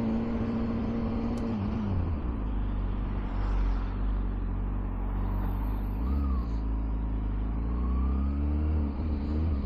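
Motorcycle engine running while being ridden, with a steady rush of road noise. The engine note drops about two seconds in, dips briefly again later, and picks up near the end.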